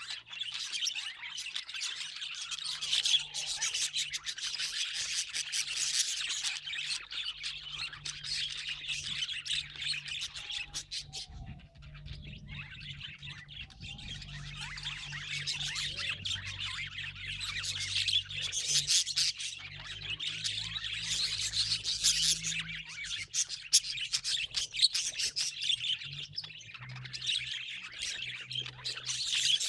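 Budgerigars chirping and warbling in a continuous, rapid twittering chatter, with a brief lull about halfway through.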